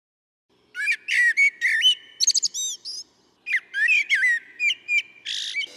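Bird calls: quick runs of short whistled chirps that slide up and down in pitch, in two bursts with a brief pause between.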